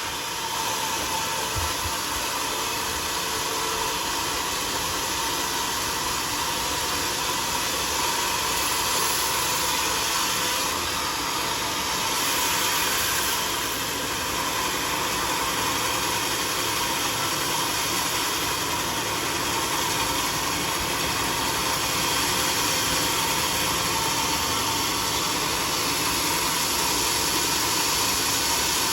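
Homemade sawmill running steadily: a continuous, even machine noise with no breaks.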